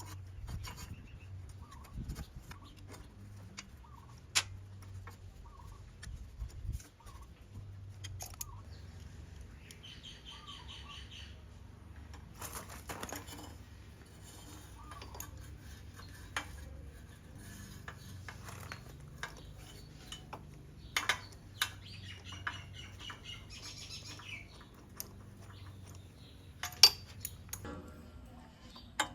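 Metal hand tools clinking and knocking at irregular intervals, with two short runs of rapid ratchet-wrench clicking, one about ten seconds in and another a little past twenty seconds; faint bird chirps come and go early on.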